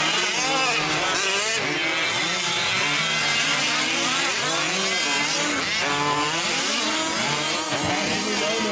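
Several fifth-scale RC race trucks' small two-stroke gas engines revving, overlapping one another. Their pitches keep rising and falling as they accelerate and back off around the track.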